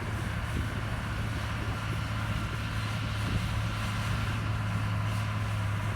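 Komatsu bulldozer's diesel engine running steadily with a low drone, growing slightly louder toward the end.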